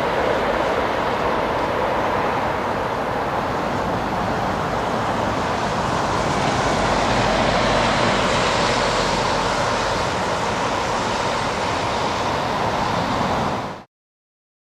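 Steady jet roar from an Airbus A380 on landing, its four engines making an even, loud rushing noise that cuts off abruptly near the end.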